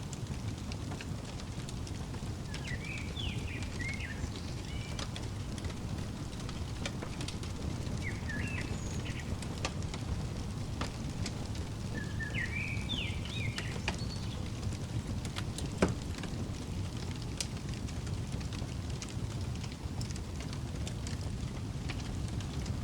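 Crackling fireplace: a steady low rumble with scattered sharp pops, one louder pop about two-thirds of the way through. A songbird sings three short bursts of high chirps over it.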